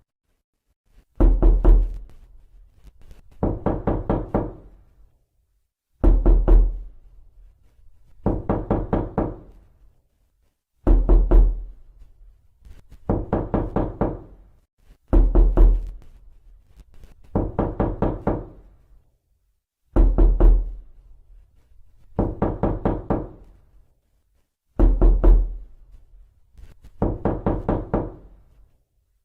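Knocking on a door in repeated bursts of about five or six quick raps, one burst every two seconds or so. Every other burst lands with a heavier, deeper thud.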